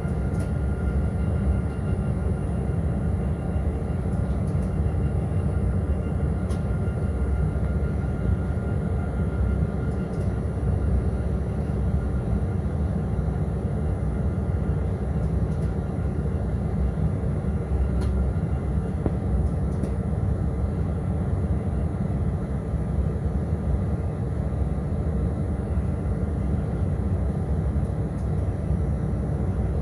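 Freight train running steadily along the line: an even, unbroken rumble.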